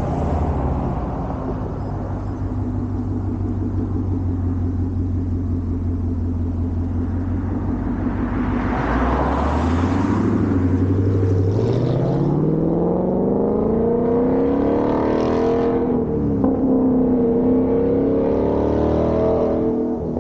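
2021 Mustang GT's 5.0 V8 through a Borla ATAK cat-back active exhaust, running steadily at low revs, then accelerating with the exhaust note rising over several seconds. It holds at higher revs with a brief dip and recovery about two-thirds of the way in.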